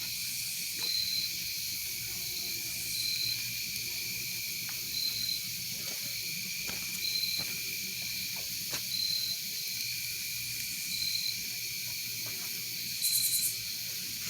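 Night insect chorus: crickets trilling steadily and high, with a short chirp repeating about every two seconds and a brief raspy buzz near the end.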